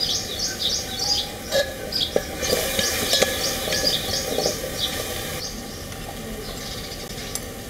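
Small birds chirping in quick, short repeated calls, thinning out near the end, with a few light clicks of a steel ladle stirring in a metal cooking pot.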